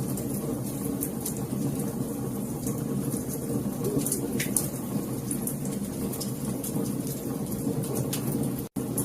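Wood fire crackling in a fireplace: a steady low rush of burning with frequent small sharp pops and snaps. The sound cuts out for an instant near the end.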